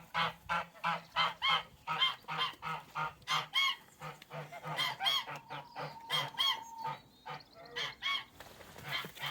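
Domestic goose honking in a rapid run of short, harsh honks, about three a second, easing off briefly near the end.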